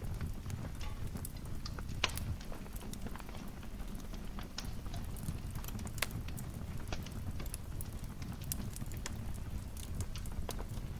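Wood fire crackling: frequent irregular snaps and pops over a steady low rumble, with a couple of sharper pops about two seconds and six seconds in.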